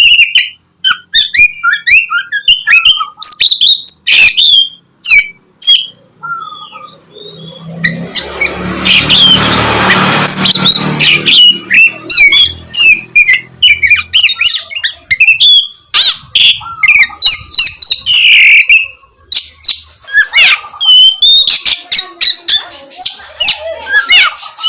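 Oriental magpie-robin (kacer) singing a loud, rapid, varied song of quick sliding whistled notes and sharp clicks. A stretch of rough, hissing noise with a low rumble runs under the song from about 8 to 12 seconds in.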